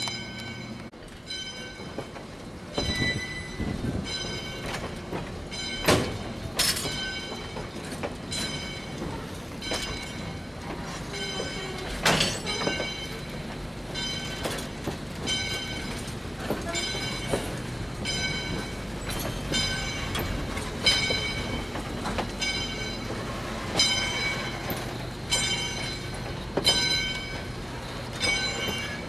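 Passenger coaches rolling slowly past a grade crossing, wheels clunking over rail joints with now and then a sharp loud knock. The crossing signal's bell rings steadily over the rumble, about one strike every three quarters of a second.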